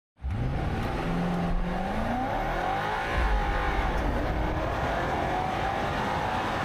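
Range Rover Sport SV's twin-turbo 4.4-litre V8 pulling under acceleration, its pitch rising over the first couple of seconds and then running on with small rises and falls.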